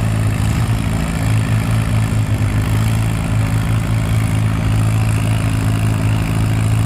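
Allis-Chalmers WC's four-cylinder engine working hard under load, pulling a tractor-pull sled, its note held steady and even throughout.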